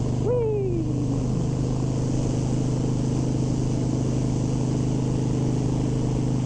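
Harley-Davidson Sportster 1200 Custom's air-cooled V-twin engine running steadily at cruising speed, with wind noise. About a quarter-second in, a brief tone glides downward over about a second.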